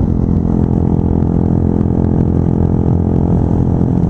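Motorcycle engine running at a steady cruising speed on the highway, with wind rushing over the rider and microphone.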